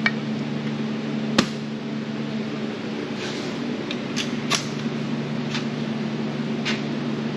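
Light hammer taps on sheet steel, tapping out the edge of a cab-corner patch panel: a handful of sharp, separate taps, the loudest about a second and a half in. A steady low hum runs underneath.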